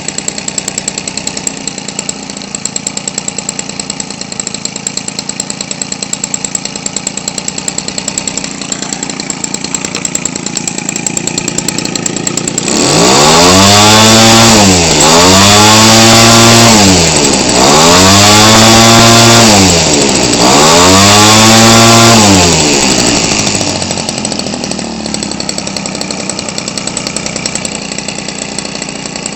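Weed Eater Featherlite 21 cc two-stroke engine, converted for an RC airplane and turning a propeller, idling with an even beat. About halfway through it is revved hard four times in a row, each run rising then falling in pitch with short dips between, and then it drops back to idle.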